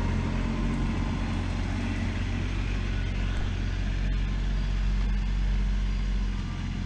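Tractor engine running steadily while digging with a backhoe-style attachment: an even low engine drone that eases slightly near the end.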